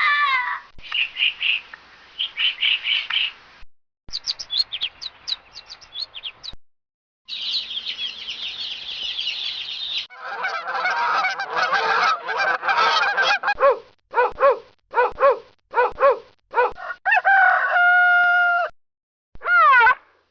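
A run of separate bird-call clips. First come high chirps and twittering trills. Then comes a burst of chickens clucking, steady short clucks, and a single held rooster crow near the end.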